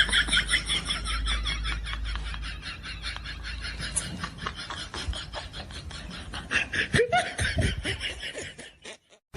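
Laughter sound effect: quick, high-pitched snickering in a rapid, even run of pulses, with some lower voice sounds near the end.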